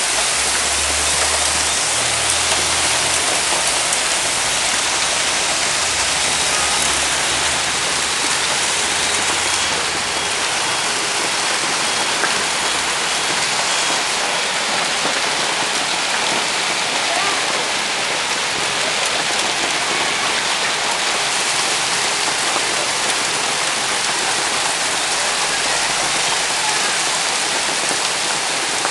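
Torrential downpour: heavy rain pouring down and drumming on surfaces as a steady, loud, dense hiss.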